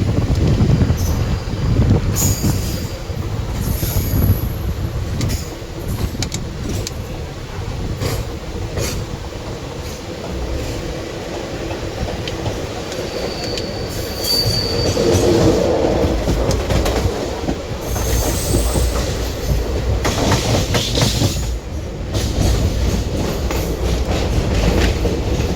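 Passenger train running on track: a steady low rumble of the coaches, with wheels clattering over rail joints and several brief high-pitched wheel squeals, the clearest about a third of the way in and again past halfway.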